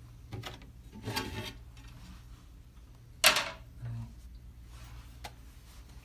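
Things being handled in and around a small refrigerator: a few short clatters and scrapes, the loudest about three seconds in, over a steady low hum.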